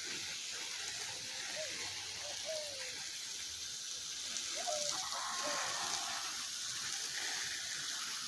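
Water spraying from a garden hose onto plants, a steady hiss, with a few faint short calls in the middle.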